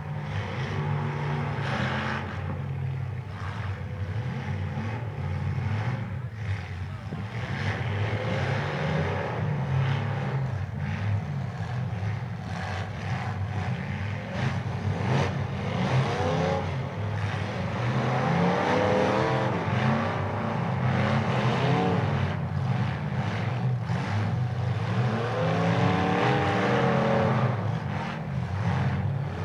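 Bonestock demolition derby cars' engines revving up and falling back again and again as they push and ram, with the knocks of cars hitting each other.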